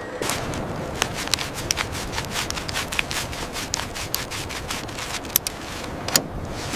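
Steady scraping and rubbing with many irregular sharp clicks and ticks, the noise of heavy parts being handled and moved.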